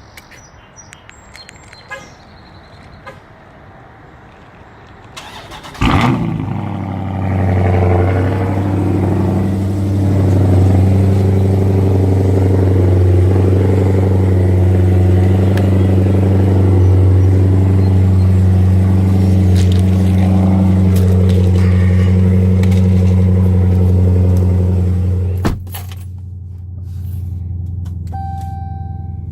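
A car engine running loud and steady at a constant low pitch. It starts abruptly with a click about six seconds in and cuts off abruptly a few seconds before the end.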